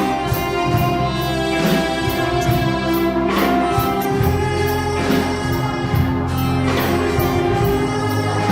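Live band playing a slow song: sustained chords over a bass line, with regular cymbal strikes.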